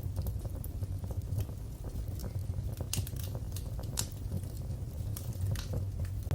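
Wood fire crackling, with irregular sharp pops and snaps over a steady low rumble of burning flames; a couple of louder pops about three and four seconds in.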